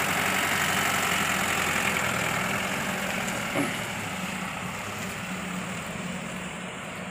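SUV engine running at low speed as the vehicle pulls away, growing steadily fainter as it moves off.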